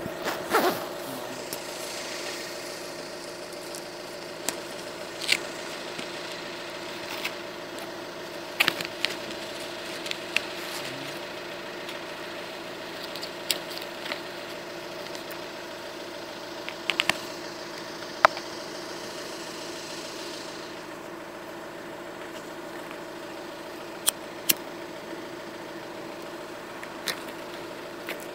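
Car engine idling steadily, heard from inside the cabin as a constant hum, with scattered light clicks and knocks.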